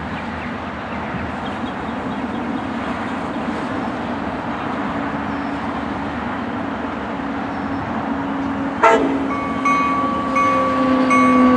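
Trinity Railway Express commuter train approaching with a steady rumble. About nine seconds in there is a sharp clack, then a warning bell starts ringing repeatedly and grows louder.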